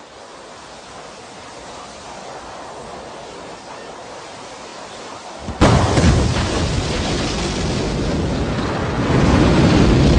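Rocket launch: a low hiss builds, then a sudden loud crack about five and a half seconds in gives way to the steady, deep rumble of rocket engines, which grows louder near the end.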